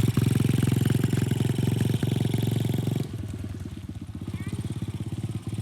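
A 125cc TaoTao DB17 dirt bike's single-cylinder engine running as the bike pulls away under a learner rider; its sound drops sharply about three seconds in and carries on quieter.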